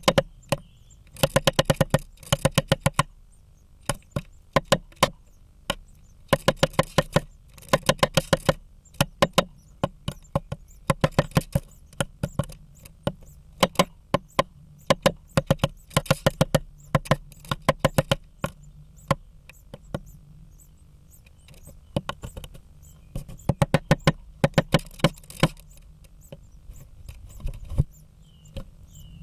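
Female great spotted woodpecker hammering at the wood of a blue tit nest: sharp pecks in rapid bursts of many blows a second, broken by short pauses. A few faint high chirps come near the end.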